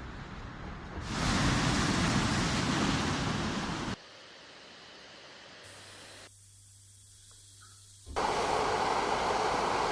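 Collage of noise recordings spliced together: stretches of hiss and rumble that cut abruptly from one to the next, louder and fuller from about a second in, then a quieter middle stretch with a steady low hum, before full noise cuts back in near the end.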